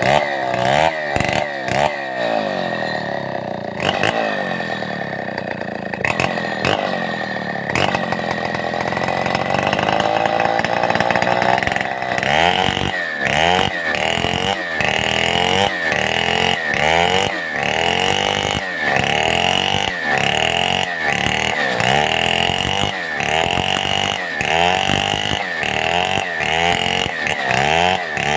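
Stihl 070 two-stroke chainsaw cutting wood, its engine note sagging under load and picking back up again and again. For the first several seconds the dips are slow and drawn out; from about twelve seconds in they come quickly and evenly, about once a second.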